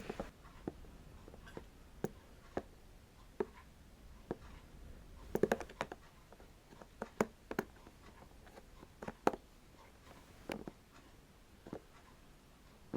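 Close-miked ASMR tapping: sharp, irregular taps and clicks on a hard object, some in quick clusters, with brief faint scratching between them.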